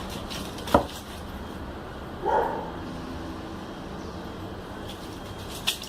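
Two domestic cats play-fighting: a sharp knock about a second in, a short animal call a little after two seconds, and a lighter click near the end.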